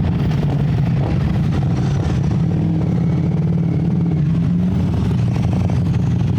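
Ducati Streetfighter V4S's V4 engine running steadily at an even, low engine speed, heard from on the bike.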